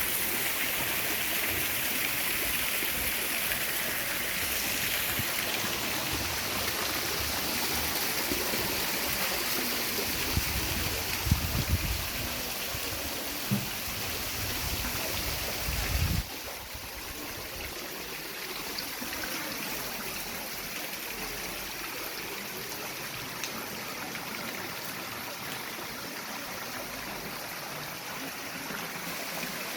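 Steady rush of running water from a waterfall and stream. It falls suddenly to a softer level about halfway through, just after a few low bumps.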